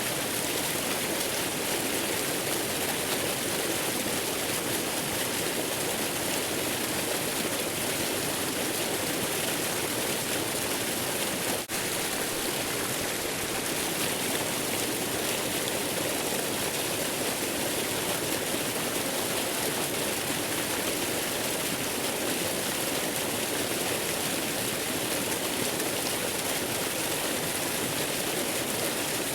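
Waterfall's rushing water, a steady even hiss with a momentary dip in level about twelve seconds in.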